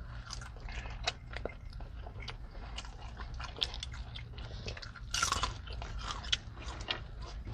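Two people chewing and biting into fast food, burgers and fries, with many small crunches, clicks and mouth smacks over a low steady hum, and a louder burst of crunchy noise about five seconds in.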